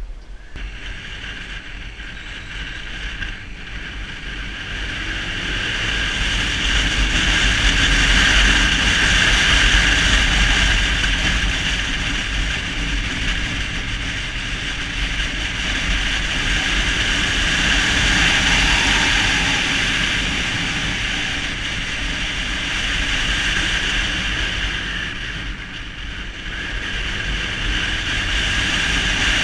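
Motorbike under way: wind rushing over the microphone with engine and road noise, building as it picks up speed over the first several seconds and easing briefly near the end before rising again.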